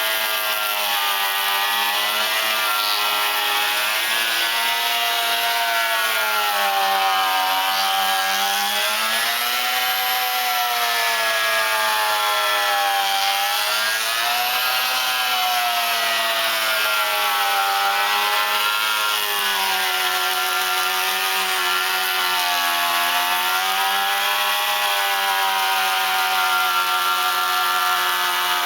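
Beam planer cutting along a timber beam, running continuously, its pitch dipping and recovering every few seconds as it takes load in the wood, over a steady hiss of shaving.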